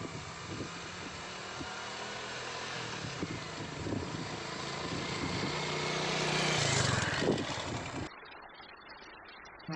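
An engine running under a wide rushing noise, growing louder, then cut off abruptly about eight seconds in, leaving only a quiet background.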